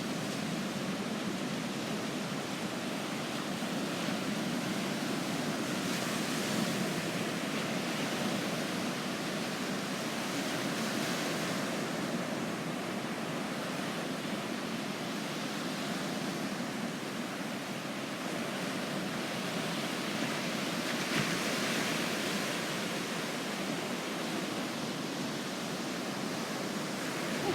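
Mediterranean surf washing onto a sandy beach: a steady rush of small waves that swells and fades a few times.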